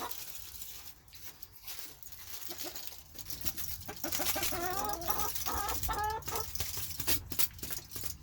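Domestic hens clucking, quieter at first, then a run of short calls from about four seconds in, with scattered sharp clicks.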